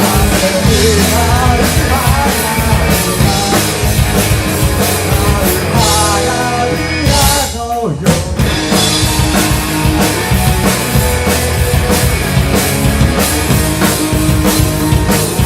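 Rock band playing live, with a drum kit driving the song, and a short break in the music about eight seconds in.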